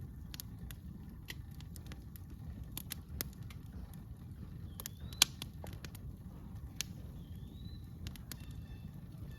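Campfire crackling, with irregular snaps and pops of burning wood and one sharper pop about five seconds in, over a steady low rumble. A bird gives a few short rising chirps in the second half.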